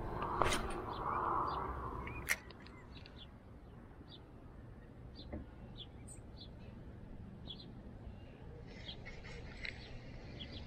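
Small birds chirping, short high calls scattered every second or so, busier near the end. In the first two seconds a brief rustle with two sharp clicks from the angler handling his fishing rod.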